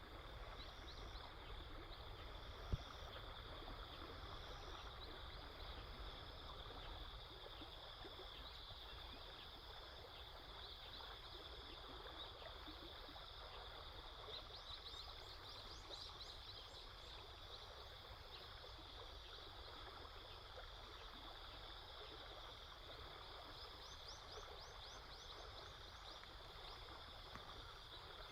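Faint outdoor ambience: a steady high chirring chorus of insects over a low, even rush of flowing water or wind. A single sharp click comes about three seconds in.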